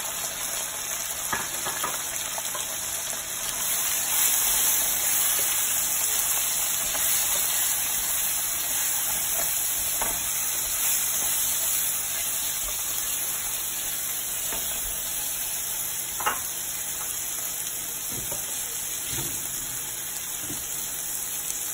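Onion, ginger-garlic paste, tomatoes and ground spices frying in hot oil in a nonstick frying pan: a steady sizzle, with a silicone spatula stirring and scraping through the masala. A single sharp tap comes late on.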